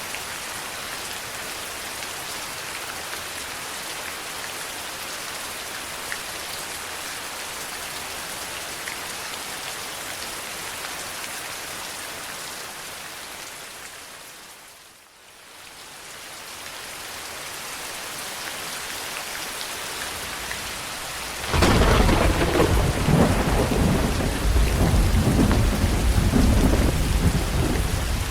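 Steady heavy rain that fades almost away near the middle and comes back, then a loud rolling rumble of thunder breaks in about three quarters of the way through and rolls on.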